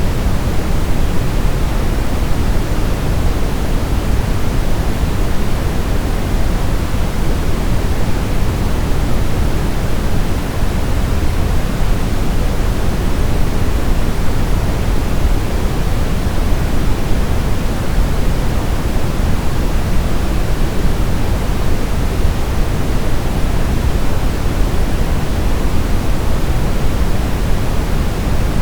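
Steady brown noise: an even, unchanging rumbling hiss, strongest in the low end and fading toward the highs, with no other sounds.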